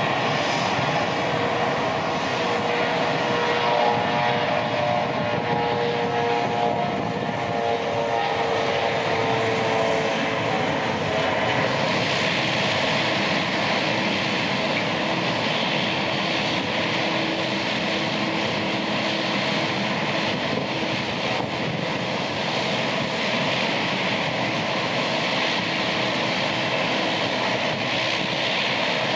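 Boeing 777-200 airliner's twin jet engines running loud and steady, with several whining tones that fade out about ten seconds in, then a brighter hiss.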